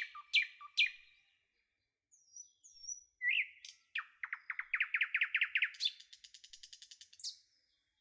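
Small birds chirping and whistling, with a rapid trill of about a dozen quick notes a few seconds in.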